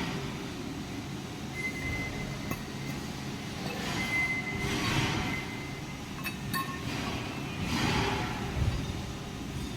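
Milling machine drilling into metal: a steady machine noise that swells every three to four seconds, with a few sharp metallic clinks about six seconds in.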